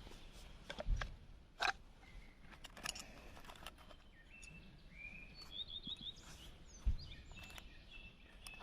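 Small birds calling outdoors: short whistled notes and a quick run of chirps, over scattered clicks and rustles, with two dull low thumps, one about a second in and one near the end.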